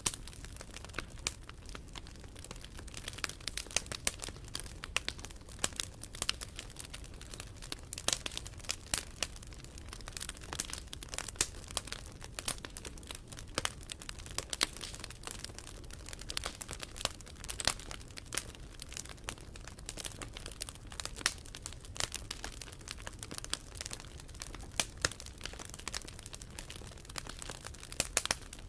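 Wood campfire crackling steadily, with a continuous stream of irregular sharp snaps and pops over a soft low rush of the flames.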